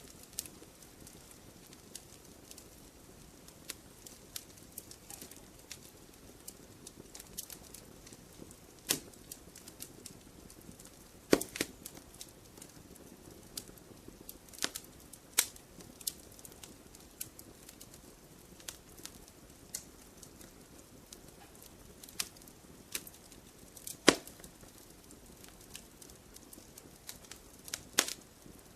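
Wood campfire burning, with a soft steady hiss under irregular crackles and a few sharper, louder pops.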